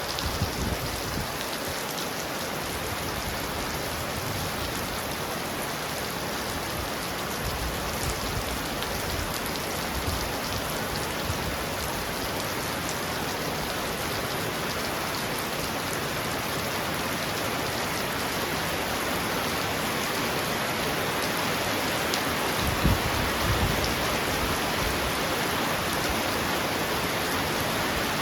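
Heavy rain pouring steadily on a roof, with a brief low rumble about 23 seconds in.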